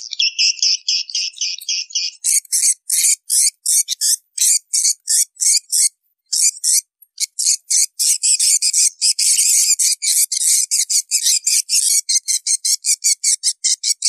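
Swiftlet calls, the lure sound played to draw swiftlets into a nest house: rapid trains of high, buzzy chirps, several a second, with a short break about six seconds in.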